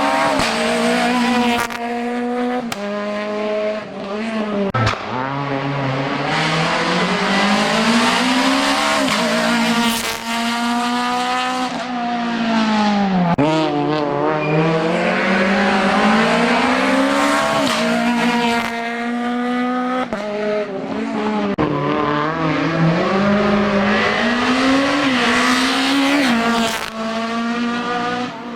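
Racing car engine revving hard and repeatedly, pitch climbing through the revs and dropping sharply at gear changes and lifts, as the car accelerates and brakes through a slalom course.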